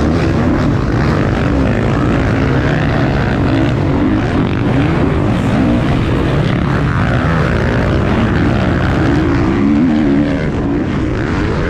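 A pack of motocross dirt bikes racing on the track, several engines revving up and down over one another without a break.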